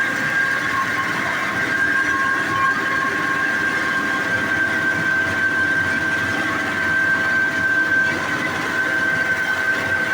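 Tractor engine running steadily under load, with a steady high-pitched whine over the engine noise.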